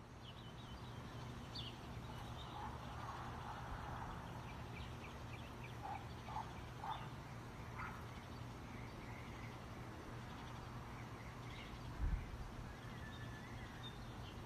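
Quiet outdoor ambience fading in: birds chirping with a few short lower calls, over a steady low hum, and a single low thump about twelve seconds in.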